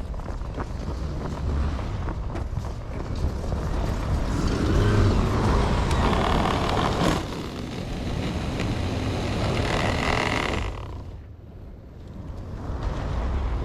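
Wind rumbling on the microphone, with vehicles passing on a snowy road: one swells and fades about four to seven seconds in, another about eight to ten seconds in, then a brief lull near the end.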